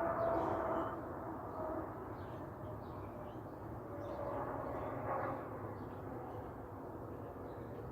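Outdoor nature ambience: a steady low rumbling hiss that swells twice, with faint, scattered bird chirps over it.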